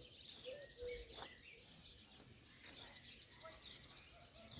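Faint birds chirping and twittering, short high calls repeating over a quiet background.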